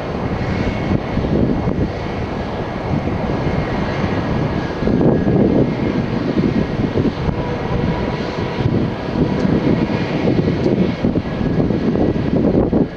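Airbus A330-300 jet engines at high takeoff power: a loud, steady rush of noise with a low, wavering rumble and a faint steady whine above it.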